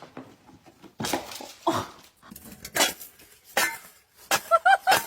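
A dog gives a rapid series of short, high, arched yips or whines, about five a second, starting a little past the middle. Before that come a few separate scuffs or knocks.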